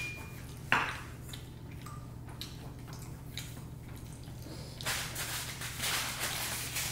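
Close-up eating sounds: a few small clicks and wet mouth sounds, then denser chewing from about five seconds in, over a steady low hum.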